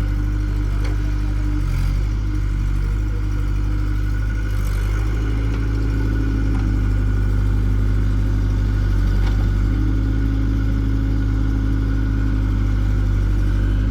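Diesel engine running steadily at a constant speed, with a few faint clicks.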